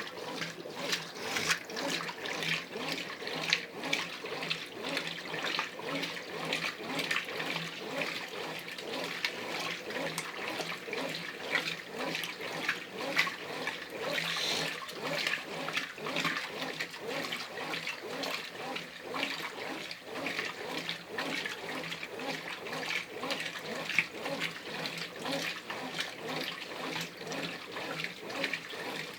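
Brastemp Ative 11 kg top-loading washing machine in its agitation phase: water and laundry sloshing and churning in the tub in a continuous run of quick surges.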